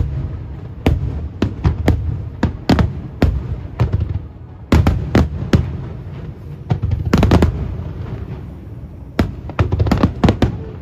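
Aerial fireworks shells bursting in quick succession: sharp bangs over a low rolling rumble, quieter for a moment near four seconds, then dense runs of rapid bangs about five and seven seconds in and again near the end.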